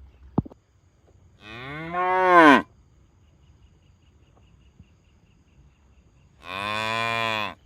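Cattle mooing twice. The first moo rises and then falls in pitch, getting louder toward its end. The second, about four seconds later, is held at a steady pitch. A sharp click comes just before the first moo.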